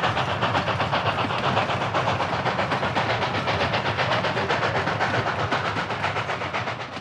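Oil-burning K-36 2-8-2 Mikado steam locomotive working hard as it gathers speed, its exhaust chuffing from the stack in a quick, even beat with steam hiss. It fades away near the end.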